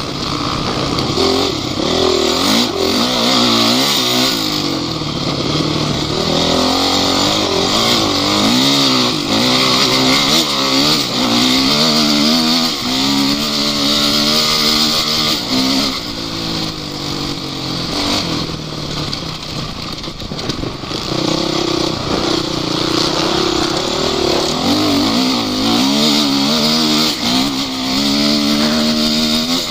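Off-road vehicle's engine revving up and down again and again, its pitch climbing and dropping every second or two, over a steady hiss.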